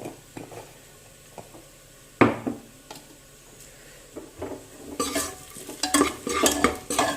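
A spoon knocks once against a pressure cooker about two seconds in. From about five seconds in it stirs and scrapes fast through onions frying in coconut oil, with clinks against the pot over a light sizzle.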